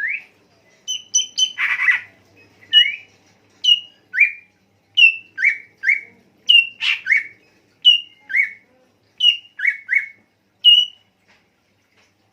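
A songbird calling in a string of short, loud whistled notes, each a quick sweep up or down in pitch, coming one to two a second and often in quick pairs; the calls stop near the end.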